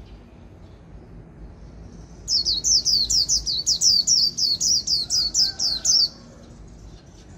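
Caged white-eye singing its 'líu' song: a fast string of high notes, each sweeping downward, about four a second. The run starts about two seconds in and lasts nearly four seconds.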